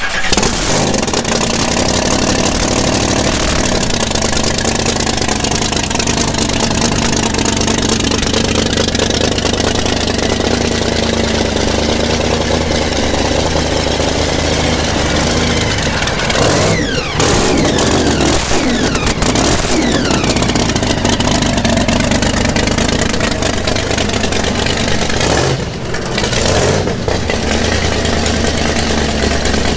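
A drag racing car's engine fires up and runs loud. It is revved, with the pitch sweeping up and down a little past the middle and again near the end.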